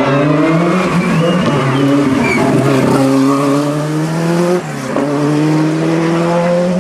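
Rally car engine at full throttle as the car passes and pulls away, its pitch climbing steadily. About two-thirds of the way through the pitch drops sharply for a gear change, then climbs again.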